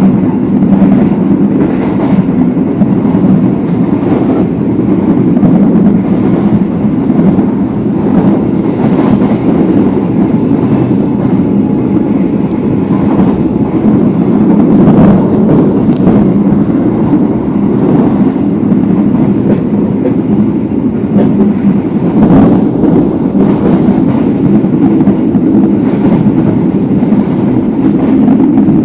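Executive-class passenger coach built in 1996 running at speed, heard from inside at the window: a loud, steady rumble of wheels on rail with an occasional clack over rail joints.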